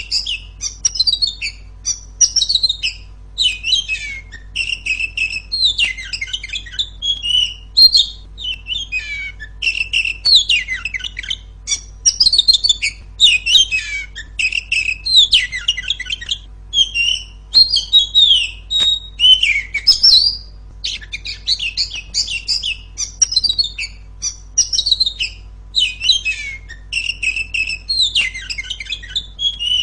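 Female Oriental magpie-robin (kacer) singing a loud, clear, fast, varied song of chirps, whistles and trills, with a brief break about two-thirds of the way through.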